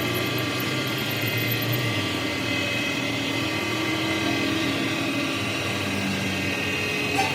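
A machine running steadily with an even drone made of several held tones, and a short click near the end.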